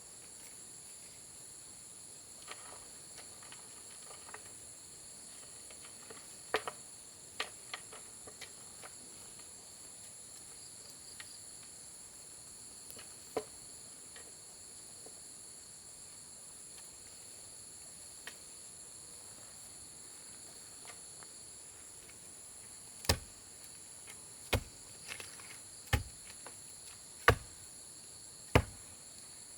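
Insects calling steadily at several high pitches, with a few scattered clicks. From about three-quarters of the way in, loud sharp knocks come roughly every second and a half.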